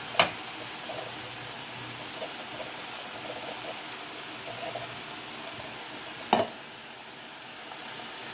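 Chili ingredients sizzling in a pot with a steady hiss, broken by a sharp knock just after the start and a louder double knock a little past six seconds in.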